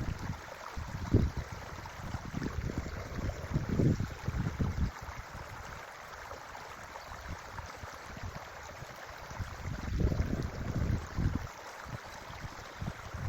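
Forest creek flowing steadily, with wind buffeting the microphone in low gusts about a second in, around three to five seconds in, and again around ten to eleven seconds in.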